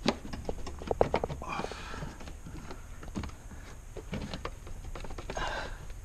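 A run of small clicks and knocks, densest about a second in, from hand tools and plastic interior trim being handled during disassembly, with a couple of breaths.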